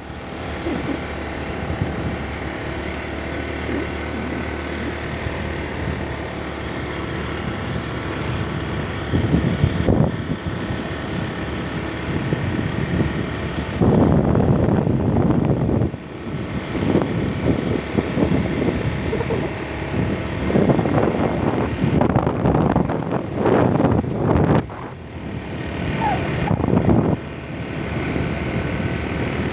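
A motor vehicle's engine running steadily while on the move, with louder surges of rushing noise several times.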